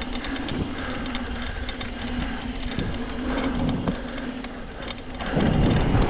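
Mountain bike rolling down a dirt trail: tyres running over the ground and the bike rattling with many small clicks over a steady hum, growing louder about five seconds in.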